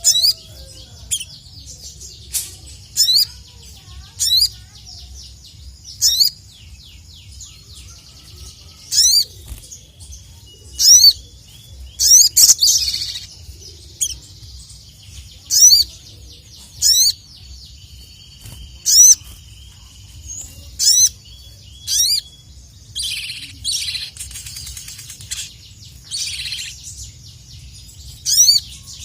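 Ruby-cheeked sunbird (sogon) calling repeatedly: short, sharp, very high notes every second or two, with a few longer buzzy trills between them. A faint low hum runs underneath.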